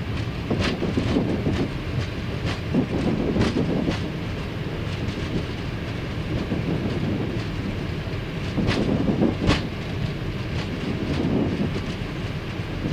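Airbus A319 on its landing rollout at low speed, heard in the cockpit: a steady rumble of the wheels rolling on the runway under braking, with sharp knocks at irregular intervals as the wheels roll over bumps in the surface, two of the clearest about two-thirds of the way through.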